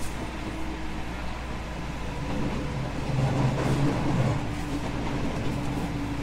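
JR West 221 series electric train running, heard from inside the car: a steady rumble of wheels on rail with a faint motor hum, swelling louder for a second or two near the middle.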